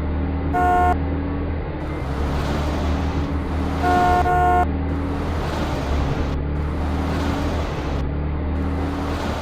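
Cartoon vehicle sound effects: a steady low engine rumble, with a horn tooting briefly once about half a second in and twice in quick succession around four seconds in.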